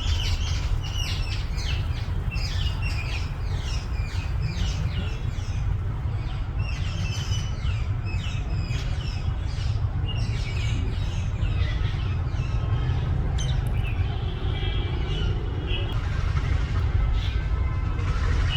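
Birds chirping in quick runs of short, falling chirps, which thin out about two-thirds of the way through, over a steady low rumble.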